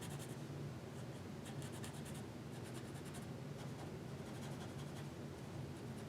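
Pencil scratching on paper in quick back-and-forth strokes, coming in short runs, as a dark area of a drawing is shaded in. A faint steady low hum lies underneath.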